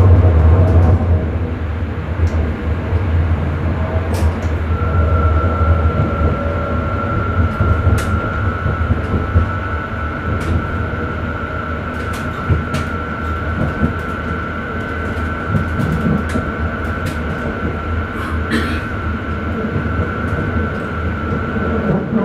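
Electric Sprinter commuter train heard from the driver's cab while running along the line: a steady rumble, with a high steady whine that comes in about four seconds in and holds, and scattered sharp clicks.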